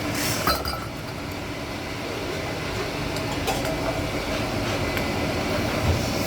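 Steady machine noise from metalworking in a kettle factory, with a few sharp metallic clinks.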